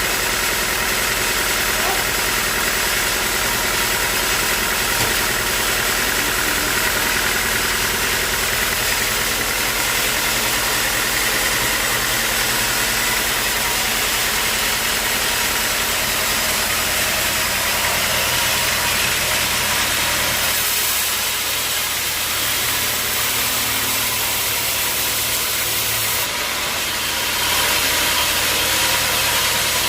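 Sawmill machinery running steadily: a constant mechanical drone with many steady tones under a strong high hiss. The sound eases a little about twenty seconds in and picks up again near the end.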